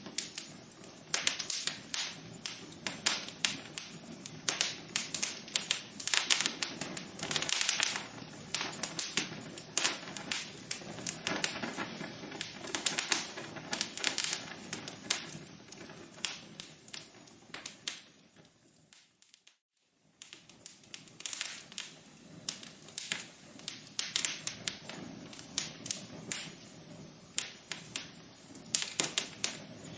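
Wood fire burning in a fireplace, crackling with dense, irregular sharp pops and snaps over a low hiss. About two-thirds of the way through, the sound fades away to a brief silence and then comes back.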